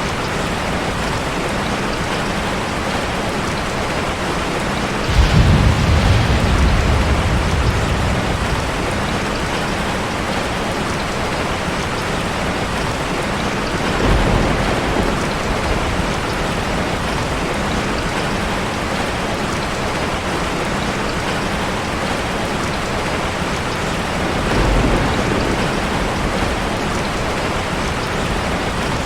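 Steady rush of falling water, a dense even hiss like a waterfall, broken three times by a low rumble: once about five seconds in (the loudest, fading over a few seconds), once in the middle and once near the end.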